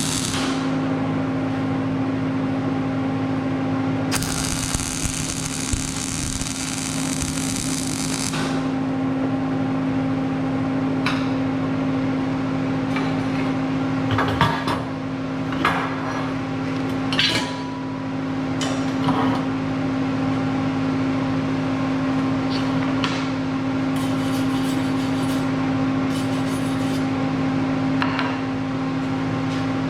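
Metal-shop work over a steady electrical hum: a hissing crackle for about four seconds, then scattered sharp metal clanks and taps.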